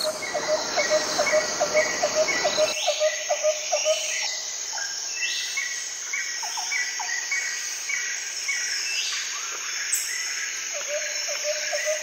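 Birds calling over a steady high insect drone. A short note repeats about three times a second at the start and again near the end, and a few higher calls sweep upward in between.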